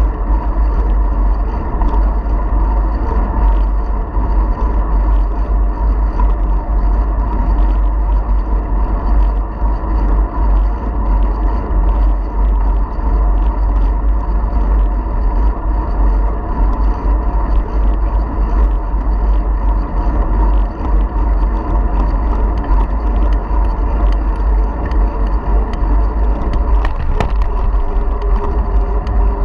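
Wind rumbling on a GoPro camera's microphone while cycling along, with the bicycle's tyre and drivetrain noise and light ticks and rattles under it. Steady throughout.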